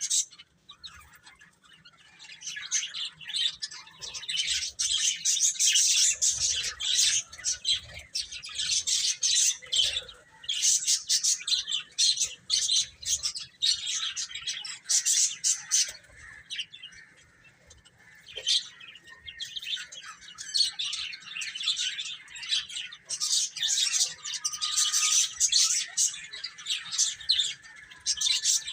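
Baby chicks peeping: many short, high-pitched chirps overlapping in busy bouts, with a few brief lulls.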